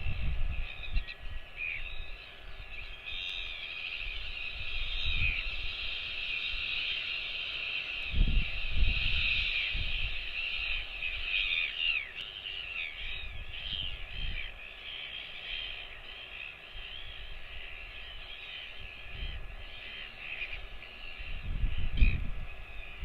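A dense, continuous chorus of many overlapping bird chirps and calls. Low thumps or rumbles come through at intervals, strongest about eight seconds in and again near the end.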